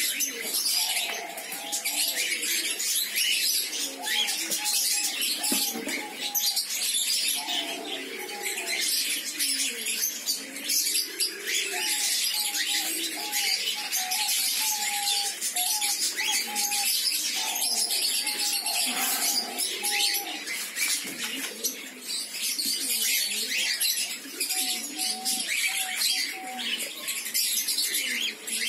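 A flock of caged cockatiels chattering and chirping without a break, with several runs of short, evenly repeated lower call notes.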